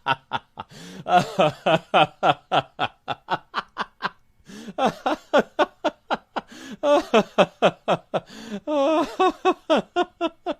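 Human laughter sound effects: rapid pulsed ha-ha laughing, several bursts a second, with a brief pause about four seconds in.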